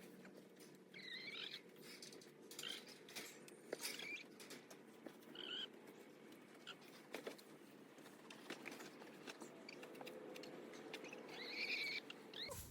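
Chickens in a coop making a few soft, short chirping calls, with light clicks and scratching from pecking and moving about; faint throughout.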